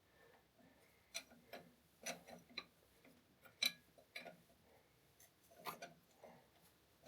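Faint, irregular metallic clicks and ticks of a hand tool working a small 8 mm nut on a diesel injection pump, about a dozen scattered over several seconds.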